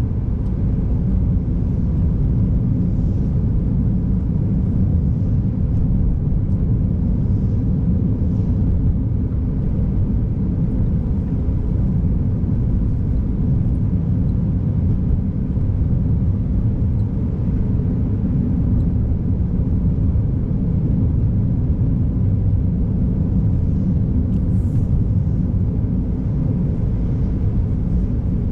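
Steady low rumble of a car driving on a snowy, icy road, road and engine noise heard from inside the car, with a few faint high ticks.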